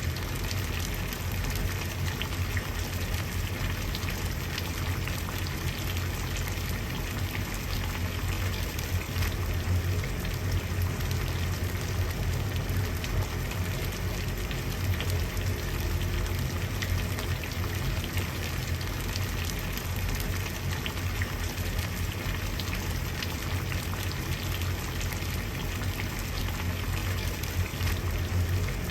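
Water at a rolling boil, bubbling and crackling steadily without let-up.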